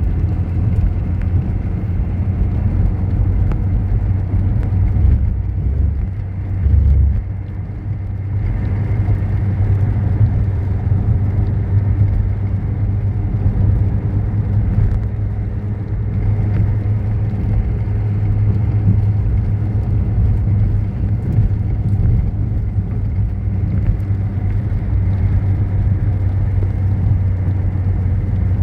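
Motor vehicle running steadily on the road, a continuous low engine and road drone with a brief swell about seven seconds in.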